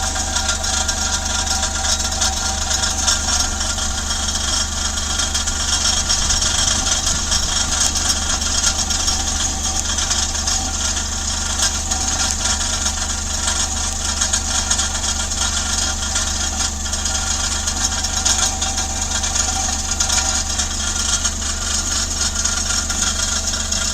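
Car engine running steadily, with the rattling, rumbling noise ("garagara, gorogoro") from the exhaust muffler that is put down to the muffler deteriorating after about ten years of use.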